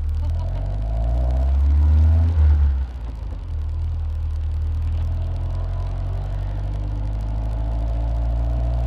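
Westfield sports car's engine heard from its open cockpit, its note rising as it pulls away. About two and a half seconds in the note drops sharply as it changes up a gear, then it runs on steadily with a slowly climbing note.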